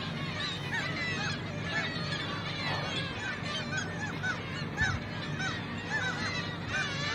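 A flock of gulls calling, many short, overlapping calls at once without pause, over a steady low background.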